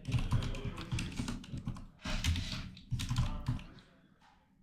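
Fast typing on a computer keyboard in several quick bursts of clicks, stopping about three and a half seconds in.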